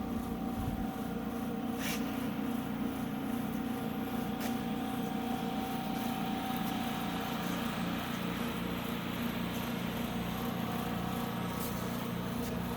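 Alcatel ASM 180TD helium leak detector running steadily, its vacuum pumps giving a steady hum, with a faint click about two seconds in and a higher tone that stops about eight seconds in. The unit is running normally after repair.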